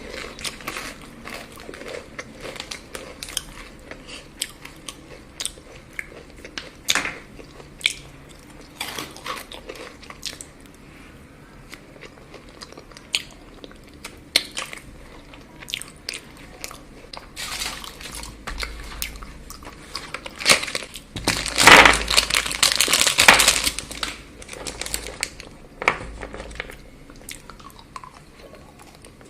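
Close-miked eating of chocolate: scattered bites, crunches and chewing, with a louder, denser stretch of crunching about three-quarters of the way through.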